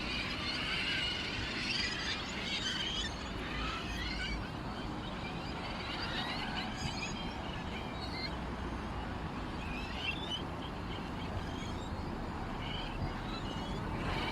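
Small birds chirping and twittering, busiest in the first few seconds and then in scattered bursts, over a steady low rumble.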